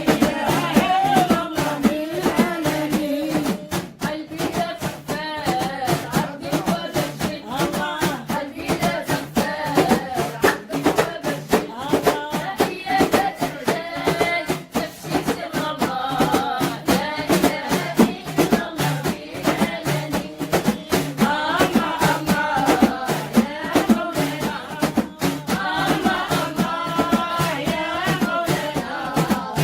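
Sung Islamic dhikr, devotional chanting, over a steady rhythmic percussion beat.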